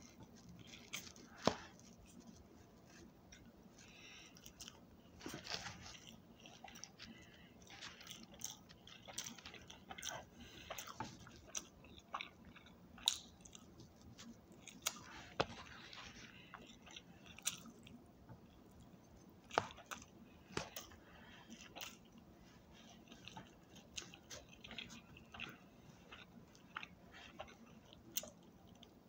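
A person chewing close up, eating rice from a spoon and then biting into bread near the end, with short wet mouth clicks at irregular intervals.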